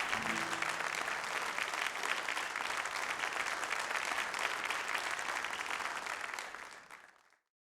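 Audience applauding and clapping steadily, fading out near the end and then cutting off.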